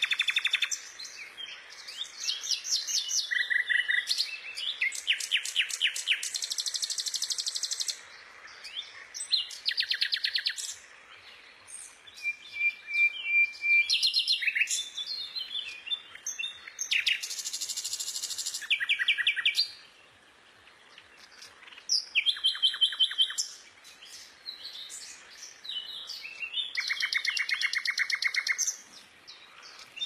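Bird calls, one bout after another: rapid trilled runs of repeated notes, chattering and short high whistles, changing in kind every second or two, with a brief lull about two-thirds of the way through.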